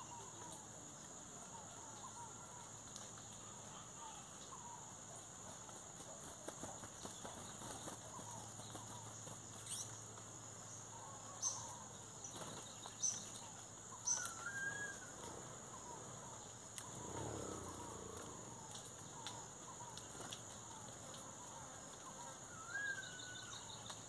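Wild birds calling: many soft, scattered chirps, a few sharp, louder calls in the middle, and a short rising call near the end.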